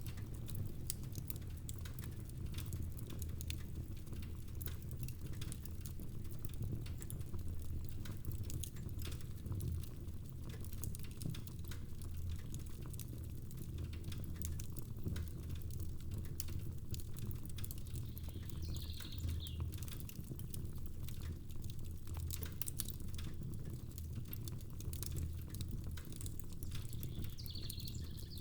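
Wood fire crackling with frequent sharp pops and snaps, over a steady low rumble and the soft patter of rain.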